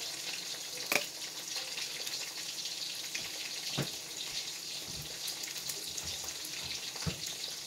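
Steady sizzling hiss of food frying in oil, full of fine crackles, with a sharp click about a second in and a few soft knocks later.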